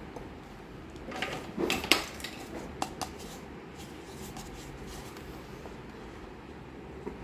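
Miniature toy cookware and utensils being handled: a quick run of small clinks and clicks about a second in, two more taps a moment later, then one faint tap near the end.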